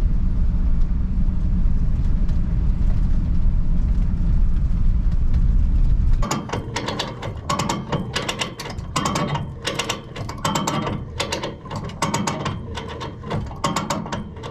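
A steady low rumble, then from about six seconds in a hand come-along ratchet clicking quickly and unevenly as it is cranked to winch a truck onto a trailer.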